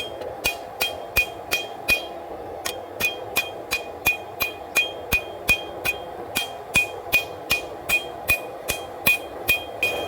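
Hand hammer blows on hot W-2 steel bar stock over an anvil, about three a second, each with a short metallic ring. The blows pause briefly about two seconds in, then carry on.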